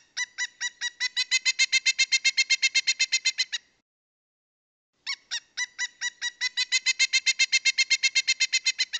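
Woodpecker calling: a rapid run of loud, evenly spaced notes, about six a second, starting a little slower and quieter and then building. The run breaks off and the same run repeats about a second and a half later.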